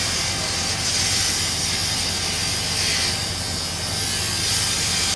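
A large engine running steadily, with a strong hiss over its low hum.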